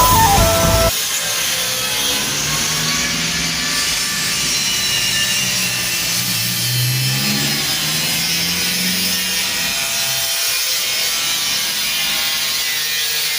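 Guitar music cuts off about a second in. It gives way to a steady mechanical rushing noise with a faint, slowly wavering low hum under it.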